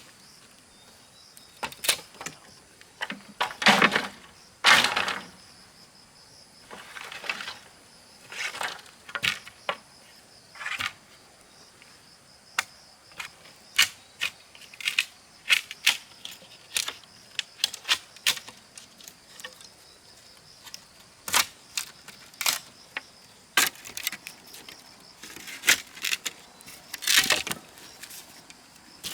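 Irregular sharp knocks and taps, a few with short scraping rasps, over a steady high-pitched drone of insects.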